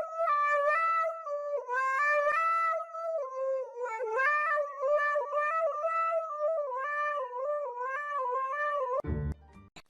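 A single high, reedy pitched tone carrying a tune without a break, stepping from note to note, cut off suddenly about nine seconds in by a short clatter.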